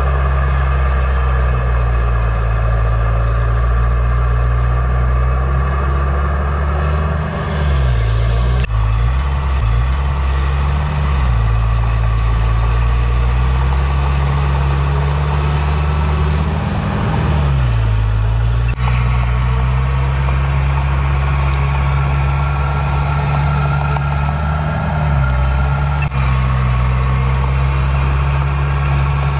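Heavy-equipment diesel engine running steadily under load, with its engine speed dropping and picking up again a few times, about a third and two thirds of the way through.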